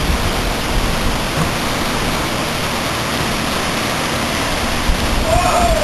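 Rushing water of river rapids, a loud, steady hiss. A brief rising-and-falling tone sounds near the end.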